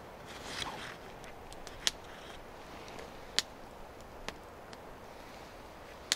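Campfire burning with a low steady hiss and a few sharp, separate pops from the burning wood.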